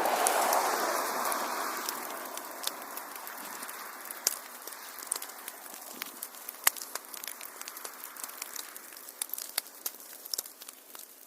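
Wood fire crackling and popping, with a soft hiss that is strongest at the start and fades over the first few seconds.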